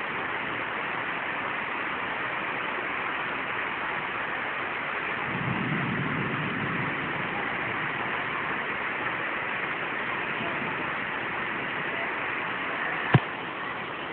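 Heavy rain falling steadily. A low rumble swells briefly around six seconds in, and a single sharp click comes near the end.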